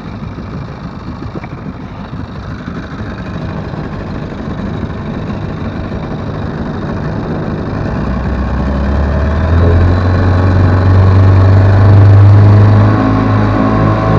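Vikhr two-stroke outboard motor with a water-jet attachment running under way, growing steadily louder, with a deep low drone coming in about two-thirds of the way through.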